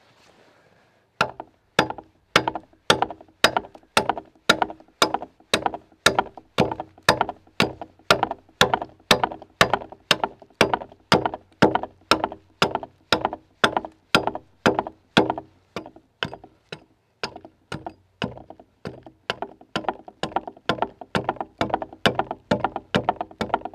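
Axe chopping into a log, a steady run of sharp strikes about two a second that starts about a second in, each blow with a short ring.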